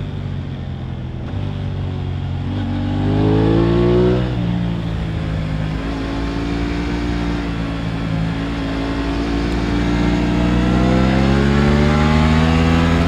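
Aprilia RS 660's parallel-twin engine under way, rising in pitch as it accelerates, dropping sharply at an upshift about four seconds in, then running steadier before climbing again toward the end.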